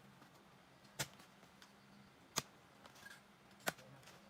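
Three sharp knocks, evenly spaced about a second and a half apart, over a faint low hum.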